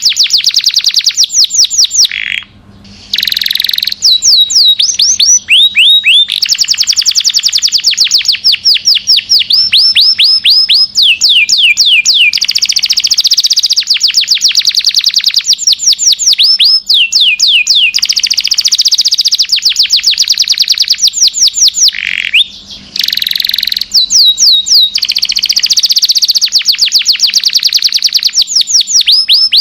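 Domestic canary singing a long, loud song of rapid trills: runs of quick repeated sweeping notes that change speed from one run to the next, with two brief pauses.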